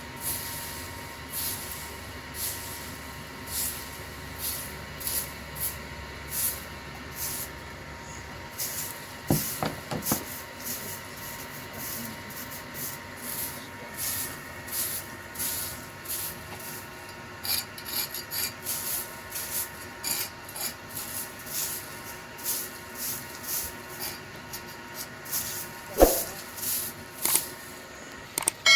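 Rhythmic scraping strokes, about one a second at first and quickening to about two a second, with a single louder knock near the end.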